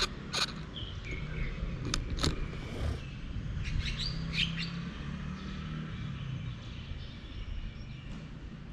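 Birds chirping: several short calls in the first half, over a low steady rumble, with a few sharp clicks in the first few seconds.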